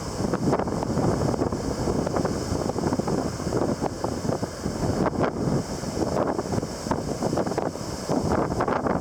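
Strong typhoon wind gusting without a break, buffeting the microphone with rough, fluttering noise.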